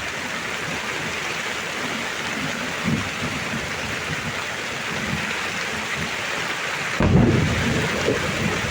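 Heavy rain falling steadily, with a sudden loud clap of thunder about seven seconds in that rumbles on low to the end.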